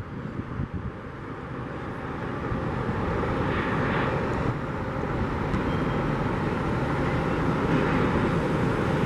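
Airbus A319 jet engines, a loud noisy rush that builds over the first few seconds and then holds steady.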